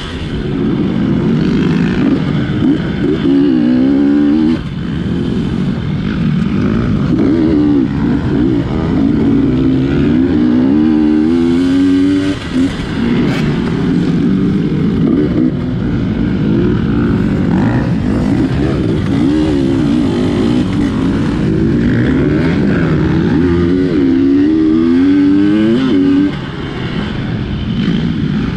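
GasGas dirt bike engine revving up and down again and again under hard throttle, with short drops as the throttle is chopped a few times.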